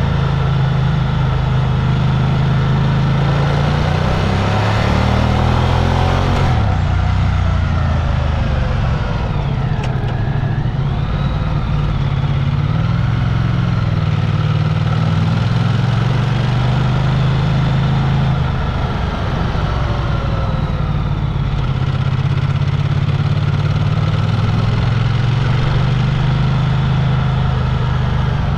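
Vehicle engine running steadily while under way, its note shifting up and down a little, over a continuous noise.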